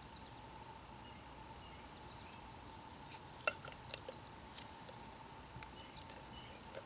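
Faint, scattered clicks and light taps of small metal exhaust parts, the spark arrestor screen and its cover, being handled and fitted by hand, starting about three seconds in, over a faint steady hum.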